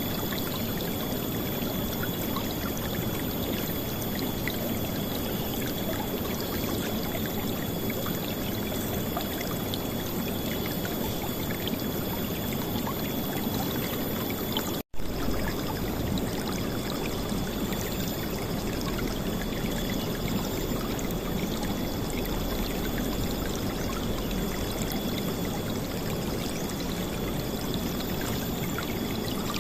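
River water flowing and splashing in a steady, loud rush. The sound cuts out for an instant about halfway through, then carries on unchanged.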